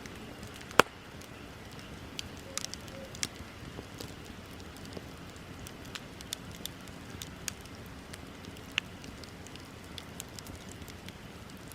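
Wood bonfire crackling, a steady low hiss scattered with sharp pops and snaps, the loudest pop about a second in.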